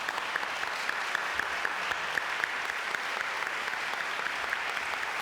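Concert audience applauding steadily, a dense even clapping that began suddenly just before.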